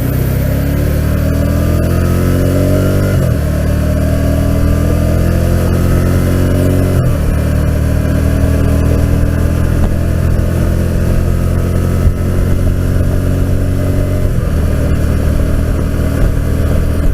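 Can-Am Spyder RT engine pulling as it accelerates at highway speed, recorded from the rider's helmet with wind rush over the mic. Its pitch climbs, then drops at an upshift about three seconds in and again about seven seconds in, with a smaller change near the end.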